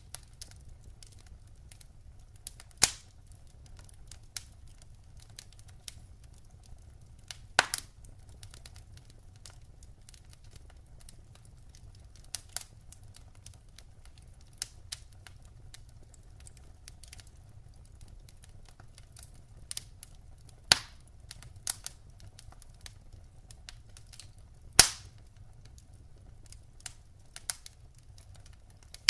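Wood fire burning in a fireplace: irregular crackling from the burning logs, with four loud sharp pops standing out, over a low steady rumble.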